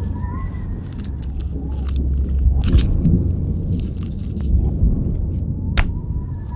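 Gory horror sound effect: a deep steady rumble under scattered wet clicks and crackles, with a faint wavering high tone near the start and one sharp snap near the end.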